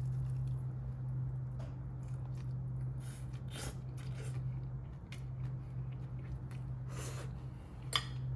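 Soft scattered crunches and chewing from a crispy pan-fried rice paper dumpling filled with fire noodles as it is pulled apart and eaten, over a steady low hum.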